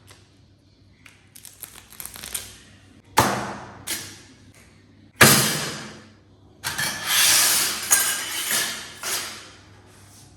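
Two sharp knocks, each trailing off briefly, about three and five seconds in, then several seconds of scraping and handling noise from craft tools and materials being worked on a table.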